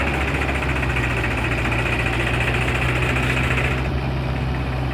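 Heavy farm diesel engine running steadily under a tractor's or combine's work. A higher buzzing layer over it stops about four seconds in.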